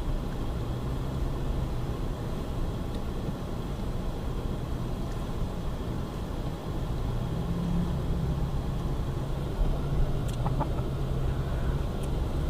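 Vehicle engine running steadily with tyre and road noise, heard from inside the cab while driving on a snowy road. A couple of faint clicks come about ten seconds in.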